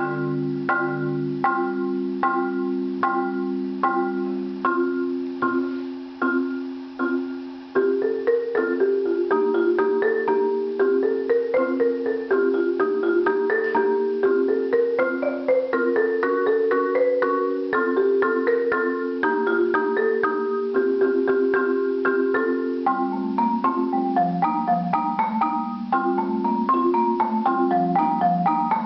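Solo marimba played with mallets: evenly repeated chords at the start that slow briefly, then from about eight seconds a flowing line of quick notes rising and falling over lower notes, which drop into the bass register near the end.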